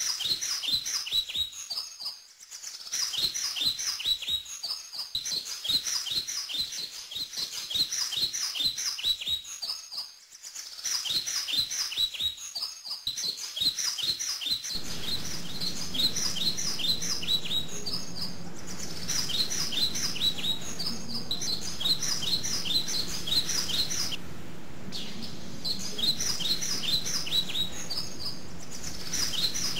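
Birds chirping in quick series of short, high, downward-sweeping notes, repeated in bursts every second or so. From about halfway, a steady low hum joins beneath the chirps.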